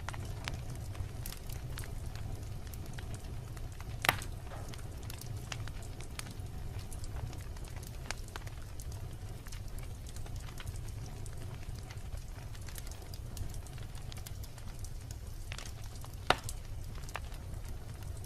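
Wood fire burning in a fireplace: a steady low rumble of flames with scattered small crackles, and two sharp loud pops from the logs, about four seconds in and near the end.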